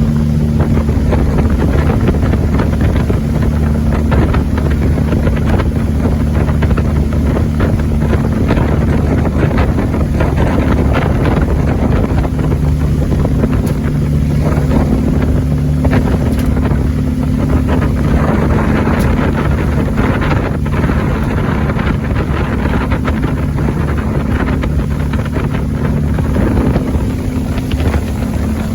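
Judge Yachts 27 Chesapeake boat's engine running steadily under way, with wind noise on the microphone.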